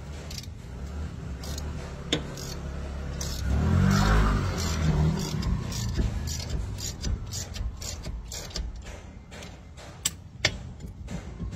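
Metal clicks and knocks of hand tools working a seized brake drum loose, over a low rumble. About four seconds in, a vehicle engine swells briefly and fades.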